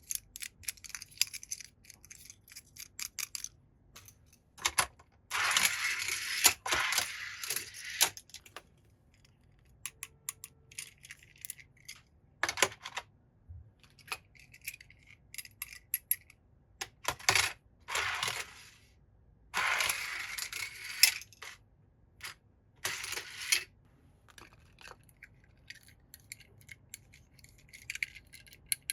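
Small hard toy cars and their packaging being handled: a string of sharp clicks and taps, with several bursts of scraping noise lasting a second or two.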